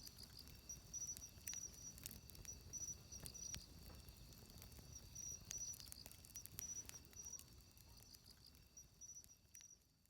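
Wood campfire crackling with scattered sharp pops over a low, soft rumble, while an insect chirps in short, evenly pitched trills about once a second. Everything fades out near the end.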